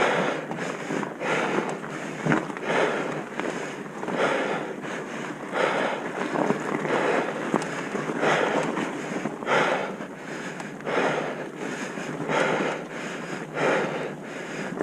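Wind buffeting the microphone, with a swish about every second or so, like edges sliding and turning on snow during a downhill run.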